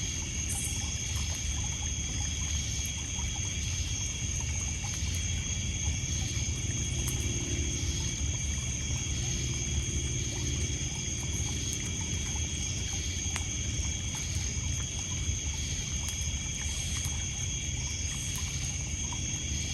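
A steady night chorus of crickets and other insects: several high, even trills with a regular chirping pulse about once a second. Underneath is a low wash of water lapping on a pebble shore, with an occasional faint crackle from a wood campfire.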